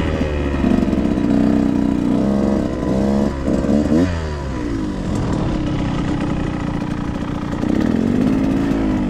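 Dirt bike engine running and revving, its pitch rising and falling as the throttle is worked, with a quick sweep up and down about four seconds in.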